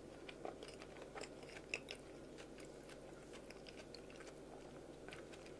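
A person chewing food close to the microphone, with faint irregular crunching and mouth clicks over a low steady hum.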